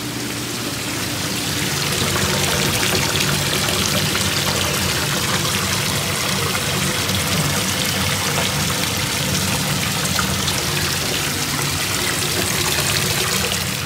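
Steady rush of running, pouring water that builds up over the first second or two and holds level.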